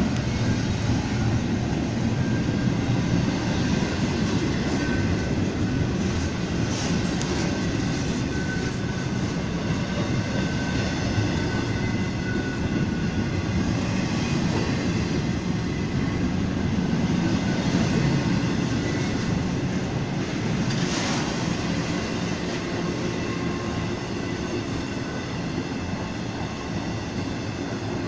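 A train passing close by: a steady rumble of wheels on rail that continues throughout and eases slightly near the end.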